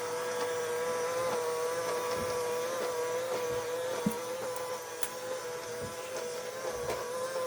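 Small robot vacuum cleaner running across a floor: a steady, slightly wavering motor whine, with a faint click about four seconds in.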